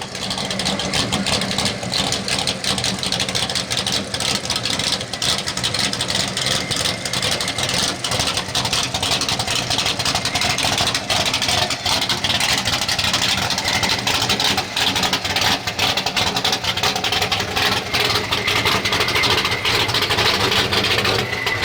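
Super street 4x4 pulling truck's engine idling steadily, with a rough, crackly noise over it.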